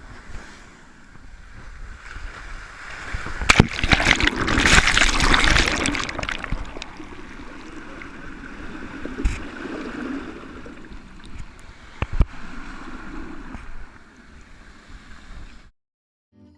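Sea water rushing and splashing along a sailing schooner's hull, with a loud surge of splashing about three and a half seconds in that lasts a couple of seconds, and two sharp knocks. The sound cuts off abruptly near the end.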